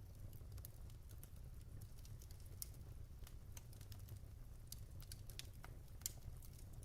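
Wood fire burning in a fireplace: a low steady rumble with irregular quiet crackles and a few sharper pops of burning logs, the loudest pop about six seconds in.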